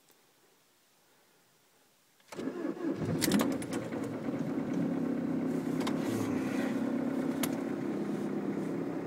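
Peugeot Partner 1.6 HDi diesel engine cold-starting at about −19 °C. After a couple of seconds of quiet it cranks briefly, catches at once and settles into a steady idle.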